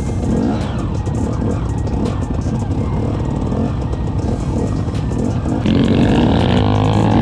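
Off-road motorcycle and quad engines running and revving unevenly, with music under them. About six seconds in, louder guitar music comes in and takes over.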